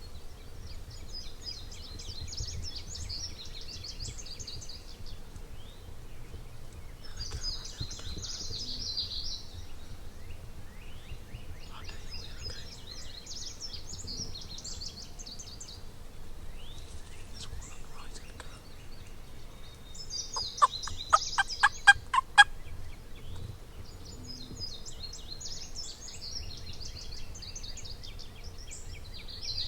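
Turkey calling loudly about two-thirds of the way in: a quick run of about a dozen sharp notes over some two seconds. Small songbirds sing short phrases over and over throughout.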